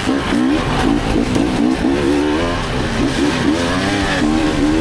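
Dirt bike engines revving, rising and falling in pitch over and over as the throttle is worked on and off.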